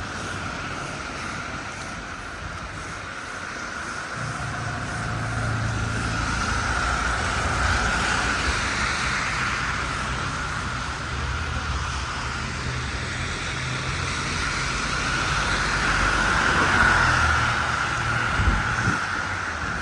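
City street traffic: vehicles driving past, swelling louder about eight seconds in and again near the end.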